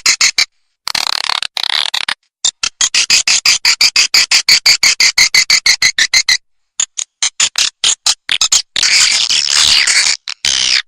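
Edible-nest swiftlet calls: rapid trains of sharp, high chirps and clicks, about ten a second, running into stretches of dense twittering, with two brief gaps. This is a recorded swiftlet lure call, played in swiftlet houses to draw the birds in to roost and nest.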